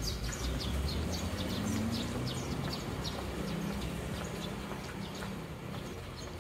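Small birds chirping: a rapid series of short, high, falling chirps that thin out after about four seconds, over a steady low rumble.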